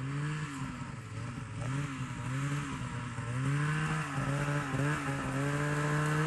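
Snowmobile engine running with its pitch rising and falling as the throttle is worked, growing gradually louder as the sled approaches through deep snow.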